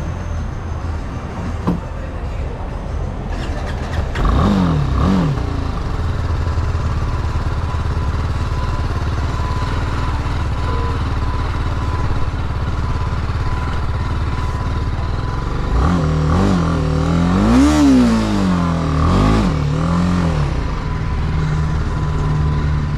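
Motorcycle engine running with a steady low rumble, revving up and falling back briefly about four seconds in and again in several swells near the end.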